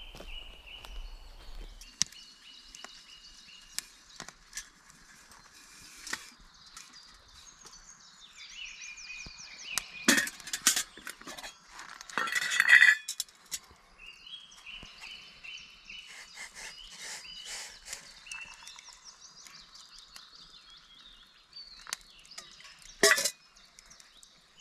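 Woodland birds singing, with repeated trills and chirps, broken by a few loud, sharp clinks and clatters: one cluster about ten seconds in, a longer one about thirteen seconds in, and another near the end.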